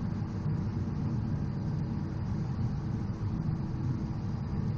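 Steady cockpit noise of a Cessna Citation XL business jet on short final approach: an even rumble of engine and airflow.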